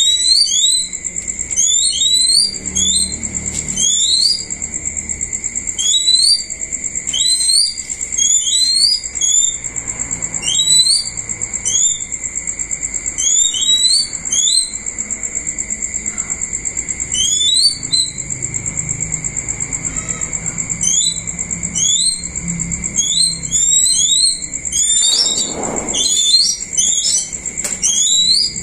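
High, short rising chirps in quick clusters of two or three, repeated about every second, over a steady high-pitched insect drone.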